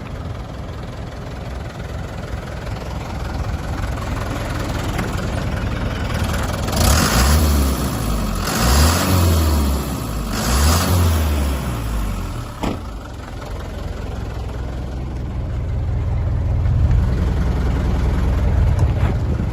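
1997 Mitsubishi Canter's 4D35 four-cylinder diesel engine idling, then revved three times in quick succession, each rev rising and falling in pitch, before settling back to idle. There is a single sharp click shortly after the revs, and the engine note swells again near the end.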